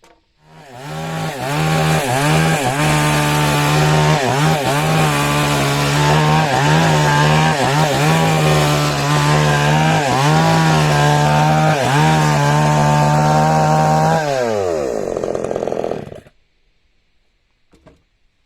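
A power tool working timber: its motor starts up, runs steadily at high speed with short dips in pitch every second or so as it bites into the wood, then is switched off and winds down to a stop.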